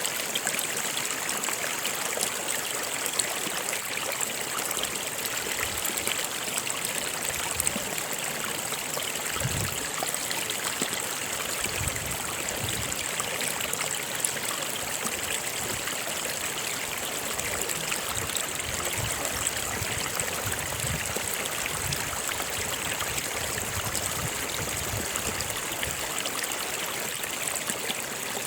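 Running water of a stream, a steady rush with a trickling sound.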